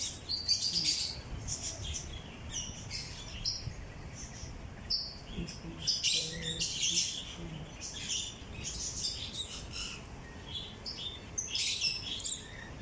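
A flock of small aviary birds chirping and tweeting, with many short, high calls overlapping throughout.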